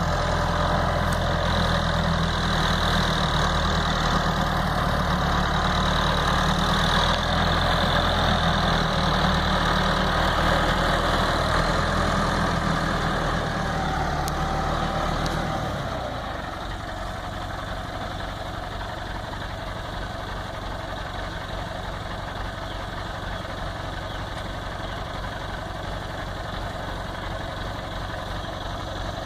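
Tractor engine running steadily, then dropping to a quieter, lower run a little past halfway.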